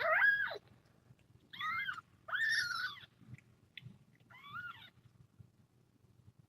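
Young kitten meowing four times in quick succession, short calls that rise and fall in pitch.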